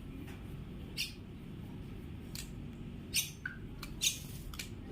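Common myna giving several short, sharp squawks spread over a few seconds, over a steady low background noise.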